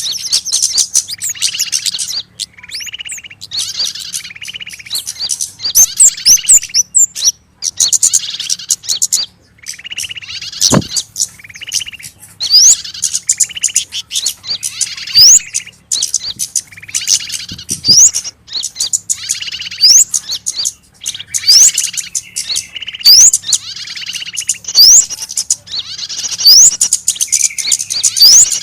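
Small birds giving frantic, harsh distress and alarm calls, the sound of a trapped bird used as a lure to draw other small birds in. Buzzy chattering calls repeat rapidly, mixed with many short, sharp rising whistles.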